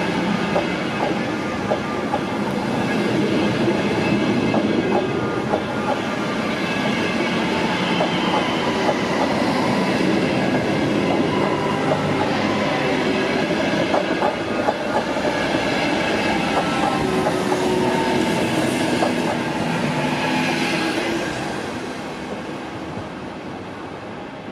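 Train running through the station, its wheels clattering over rail joints in a steady stream of clicks; the sound drops away about three seconds before the end.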